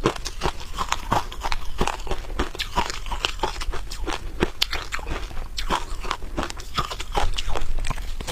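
Close-up biting and chewing of freezer frost, a rapid irregular run of crisp crunches and crackles, several a second.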